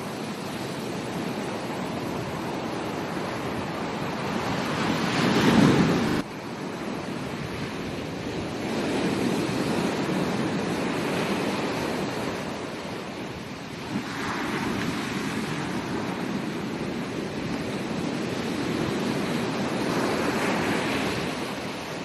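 Ocean waves breaking on a beach, surging and washing back in slow swells every few seconds. The loudest surge comes about five seconds in and cuts off suddenly a second later.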